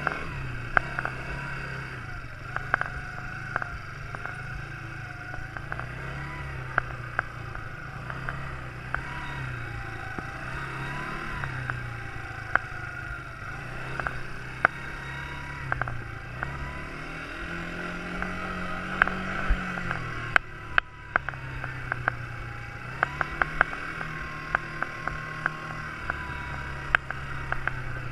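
Quad bike engine running, its note rising and falling with the throttle and revving higher for a couple of seconds about two-thirds of the way through, with frequent sharp knocks and rattles over it.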